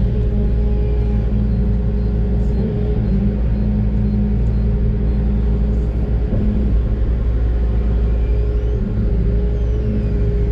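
Doosan DX600 excavator's diesel engine running steadily: a constant low drone with a steady higher tone over it.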